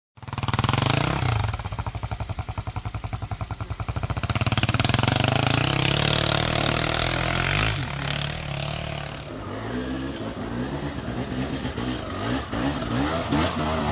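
Single-cylinder off-road trail motorcycle engine. It starts with a steady low chugging beat, revs harder for a few seconds, then is blipped unevenly on and off.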